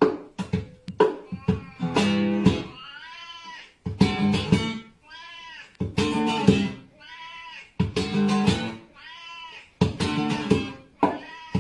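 Music with plucked guitar, broken by a cat meowing four times: each meow a single call that rises and falls in pitch, about every two seconds.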